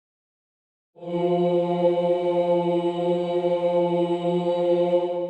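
A choir holds a single low note steadily for about four seconds, starting about a second in.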